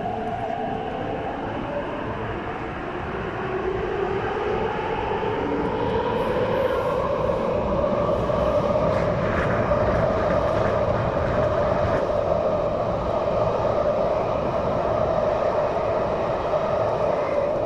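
An MTR East Rail line R-Train pulling away and passing close by in a tunnel. Its traction motors give a whine that climbs in pitch as it gathers speed over the first half, then holds steady, above a constant rumble of wheels on rail.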